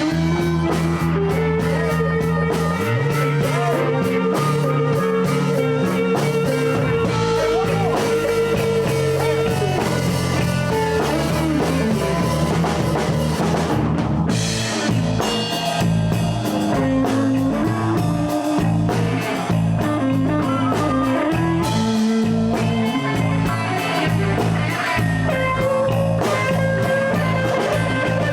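A live blues band plays an instrumental passage with electric guitar, bass and drum kit. A long held lead note sustains from about two seconds in to about nine seconds.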